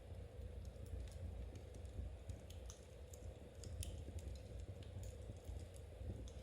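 Knitting needles clicking softly as stitches are worked, with scattered sharp crackles from a fire over a low steady rumble.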